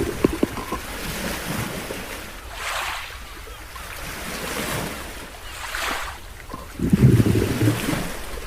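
Sea waves washing and wind buffeting the microphone on open water, with two swells of hiss and gusty rumbles near the end.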